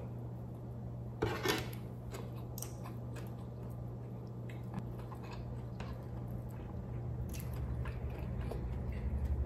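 Close-miked chewing and mouth sounds of someone eating Dungeness crab and rice by hand, with scattered wet clicks and a louder crackly burst about a second in. A steady low hum runs underneath.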